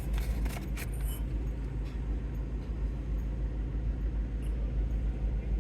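Steady low rumble and hum of a car engine idling, with a few faint ticks.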